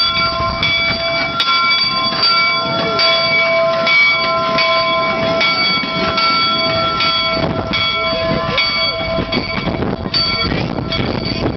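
Steam locomotive No. 119's bell ringing over and over, a clang every half second to second, with the rumble of the locomotive running on the track beneath it.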